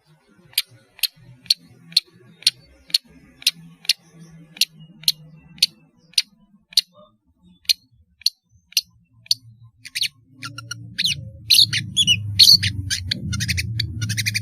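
Long-tailed shrike singing: a run of short, sharp, evenly spaced notes about two a second, breaking into a fast, varied, louder chatter about ten seconds in.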